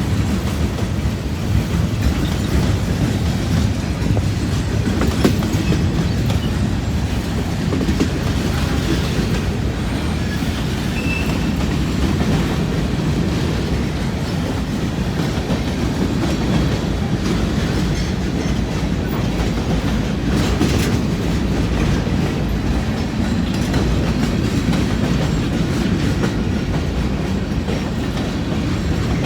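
Freight cars of a long mixed manifest train rolling past, a steady rumble of wheels on rail with occasional sharp clicks.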